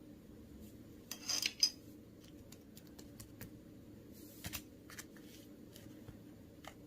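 Hands working blue slime: scattered small clicks and crackles, with a louder crackling burst a little over a second in and a shorter one at about four and a half seconds.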